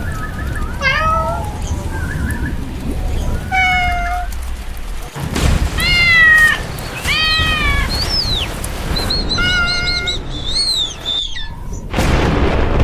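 A cartoon cat meowing again and again, a string of separate falling meows over a steady low rumble. Near the end come a few short high chirps, and then a loud noisy surge.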